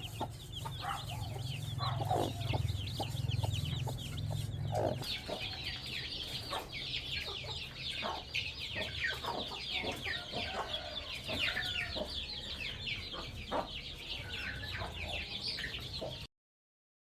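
Domestic chickens: a dense stream of high, short, falling peeps from chicks, which grows busier about five seconds in, with a hen's lower clucks now and then. The sound cuts off abruptly near the end.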